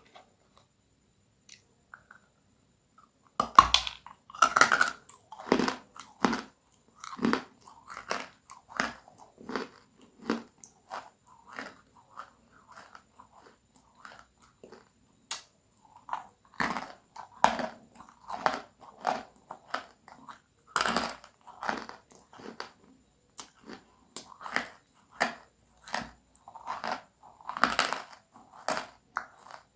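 Crunchy food being bitten and chewed: after a quiet start, a loud crunching bite about three and a half seconds in, then steady crunchy chewing at one or two crunches a second, with louder bites later on.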